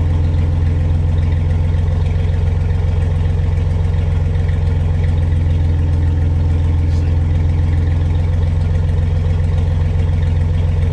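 Engine idling steadily: an even, low drone that does not change speed.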